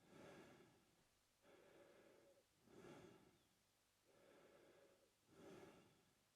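A man breathing slowly through his mouth, faint and close. It is an even cycle of a longer, softer breath followed by a shorter, louder one, about two and a half breaths.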